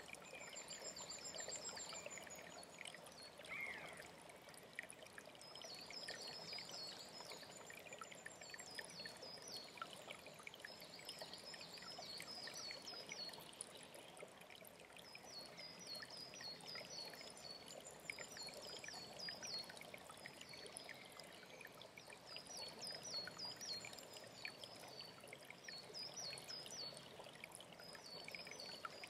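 Mountain stream flowing steadily, with a songbird singing short phrases of quick high notes, repeated every couple of seconds, and a brief high trill at the start.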